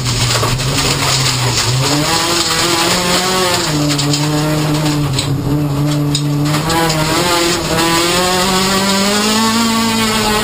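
Competition car's engine heard from inside the bare, roll-caged cabin, revving hard with its pitch climbing and dropping several times as the driver works through the gears. A steady rush of tyre and loose-surface noise runs underneath.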